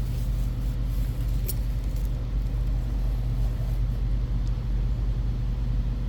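Steady low background hum, with one sharp click about a second and a half in and a couple of faint ticks later.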